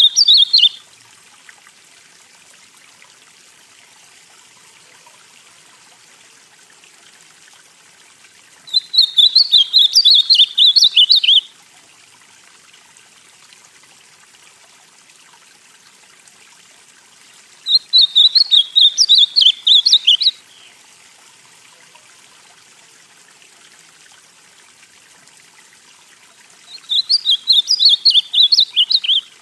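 Ultramarine grosbeak (azulão), northeastern Brazilian song type, singing. The end of one warbled song phrase comes at the very start, then three full phrases of about two and a half seconds each follow, roughly every nine seconds, over a faint steady hiss.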